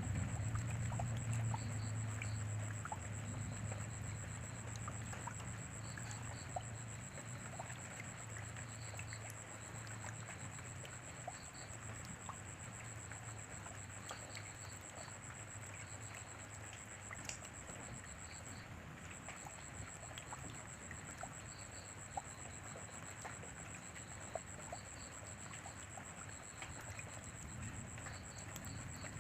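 Steady rainfall with scattered drops pattering, under a continuous high-pitched whine and faint chirps repeating in small groups. A low rumble at the start fades away within the first few seconds.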